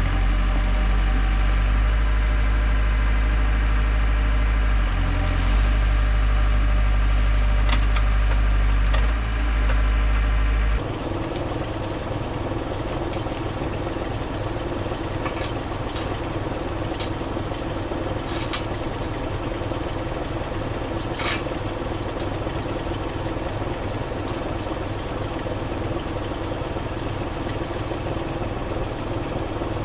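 Heavy equipment engine running steadily under load. About eleven seconds in the sound changes abruptly to a quieter, steady engine note with a few scattered sharp cracks.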